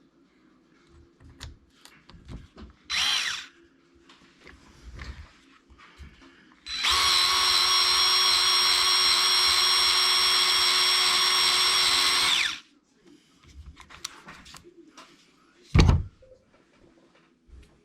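Electric drill-driver spinning briefly about three seconds in, then running steadily at constant speed for about six seconds, with light clicks of parts being handled in between. A single dull thump near the end.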